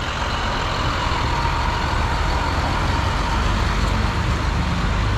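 Steady low rumble of outdoor background noise with a hiss above it, without clear events.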